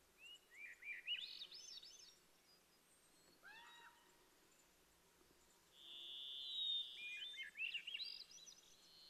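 Faint songbird calls: clusters of quick, high chirps in the first two seconds and again near the end, a lower pair of calls in the middle, and a short held high whistle just before the final cluster.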